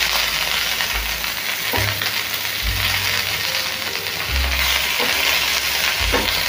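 Stuffed whole pointed gourds shallow-frying in mustard oil, a steady sizzle, while a spatula turns them over in the pan.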